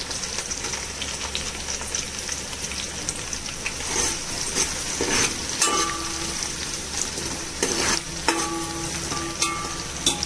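Sliced onions and green chillies sizzling in hot ghee and oil in a large metal pot. From about four seconds in, a metal spoon stirs them, clinking and scraping against the pot.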